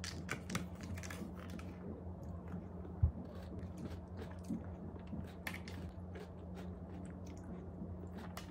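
Close-up eating sounds: crunchy chocolate cereal rings from a Viyott yogurt cup being chewed, with small clicks of a plastic spoon against the plastic cup, over a low steady hum. One low thump about three seconds in.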